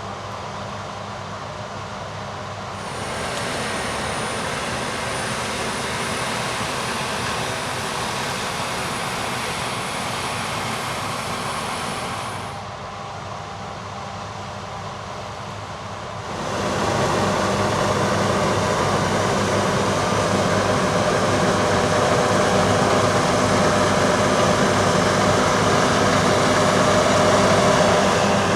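Combine harvesters running in grain harvest: a steady machine drone of engine and threshing gear, changing sharply a few times as shots cut, with a faint high whine in the second section and the loudest, closest machine in the last stretch.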